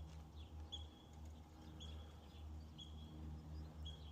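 A short, high-pitched animal chirp repeating about once a second, over a low steady hum.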